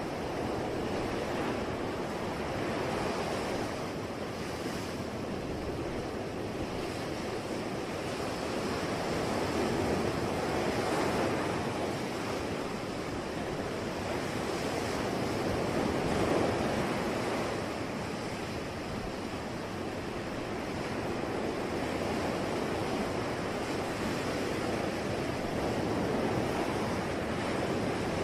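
Sea waves washing onto a shore, a steady rush of surf that swells and eases slowly every several seconds, with a breath of wind.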